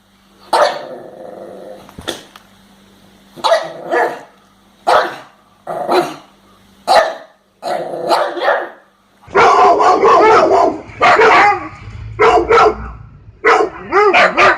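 A pug barks in short separate barks with pauses between them. About nine seconds in, a different dog, a Siberian husky, takes over with denser barks and calls that bend up and down in pitch.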